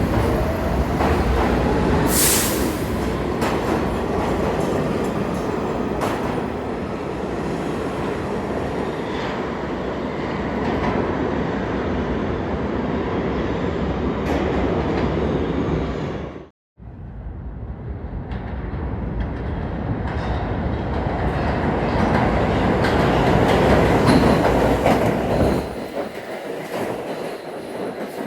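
New York City Subway R46 train running on the rails: a continuous rumble of wheels and track with clatter, and a thin high wheel squeal near the end. The sound cuts out suddenly for a moment a little past halfway, then resumes.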